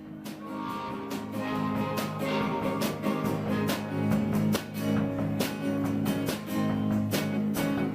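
Acoustic guitar strummed in a steady, even rhythm with sustained chords: the instrumental stretch of a song.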